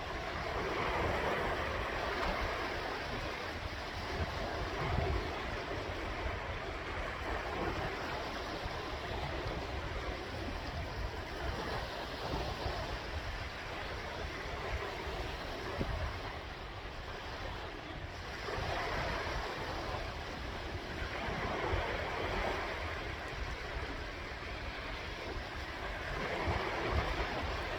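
Sea waves breaking and washing on the shore, surging and ebbing every several seconds, with wind rumbling on the microphone.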